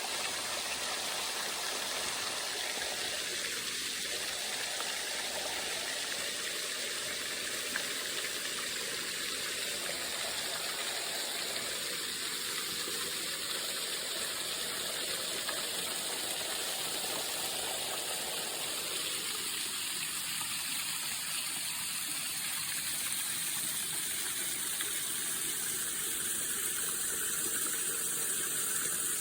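Waterfall rushing steadily: a dense, even hiss of falling water, growing a little louder near the end.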